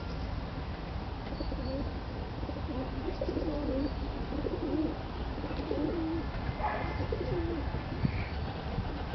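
A bird cooing: a run of soft, low, wavering calls repeated several times through the middle, over a steady background hiss.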